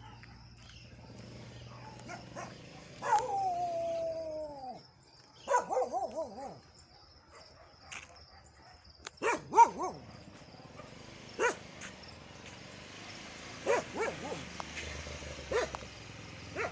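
Dog yelping and whining: one long falling whine about three seconds in, then bursts of quick yips and short barks at intervals.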